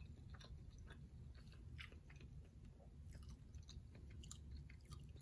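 Faint chewing of food, with soft, scattered mouth clicks a few times a second.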